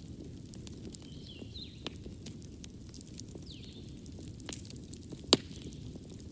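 Wood fire crackling in a fireplace: a steady low rumble with scattered small crackles and a few sharp pops, the loudest one a little after five seconds in.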